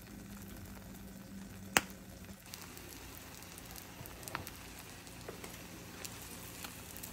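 Egg and sausage omelette frying in a nonstick pan: a faint sizzle with scattered small pops over a steady low hum. One sharp knock stands out about two seconds in.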